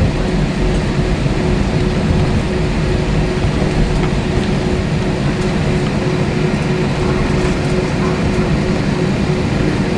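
Airbus A320 cabin noise on the ground after landing: the IAE V2500 engines run at idle under a steady rumble, with a constant hum held at one pitch.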